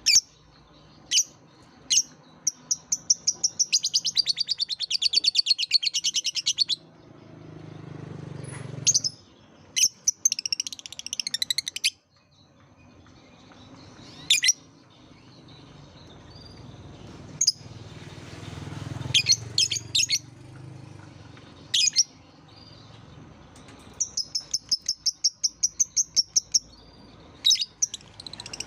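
Lovebirds calling: sharp, shrill single chirps scattered throughout, broken by long runs of rapid, rattling chatter (the 'ngekek' song) lasting a few seconds each.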